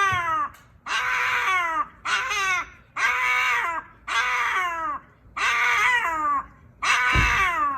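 Chihuahua screaming in excitement: a run of loud, high-pitched cries about once a second, each one sliding down in pitch.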